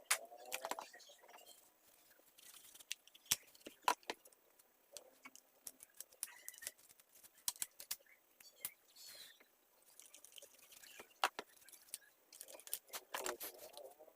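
Sped-up handling sounds of a mini chainsaw being cleaned: many scattered sharp clicks and knocks of tools and parts. High, wavy chirping sounds come about a second in and again near the end.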